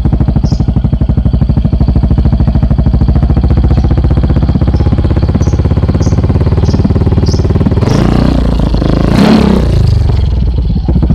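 Yamaha Mio Z scooter's single-cylinder engine idling through a Tsukigi aftermarket exhaust with an even, pulsing beat, revved once about eight seconds in and dropping back to idle.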